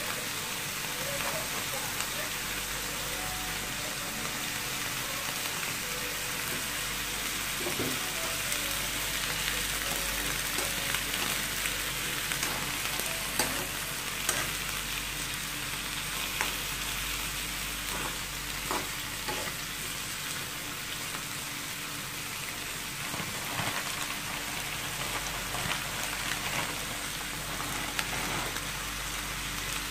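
Frozen mixed vegetables and clams sizzling in a hot wok as they are stir-fried, a steady frying hiss, with the spatula scraping and clicking against the pan now and then.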